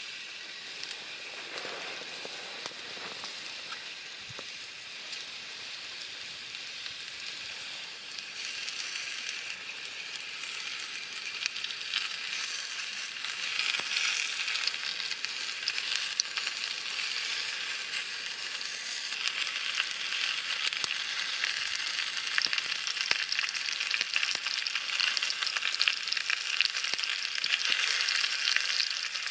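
Campfire crackling and hissing, with many small sharp pops. It grows louder about eight seconds in and again around thirteen seconds.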